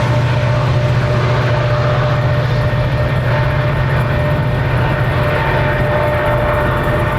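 Union Pacific intermodal double-stack freight train rolling steadily past at a grade crossing, with a loud continuous rumble. The crossing bell rings steadily over it.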